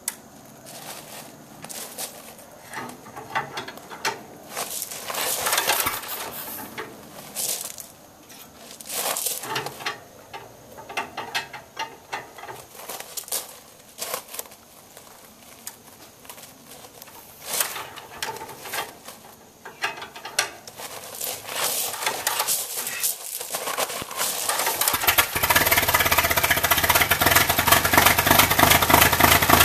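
Scattered knocks and clatter of hands working on the engine of a 1913 Marion/Overland car. About three-quarters of the way in, the engine catches and runs steadily.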